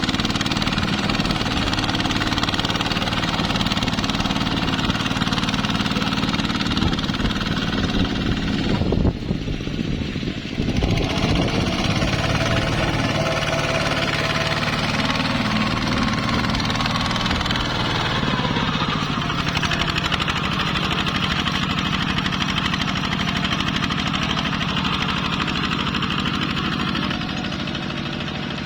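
ZT 155 two-wheel tractor's engine running steadily with a rapid knocking beat. It dips briefly about nine seconds in, and its note changes around eighteen seconds in.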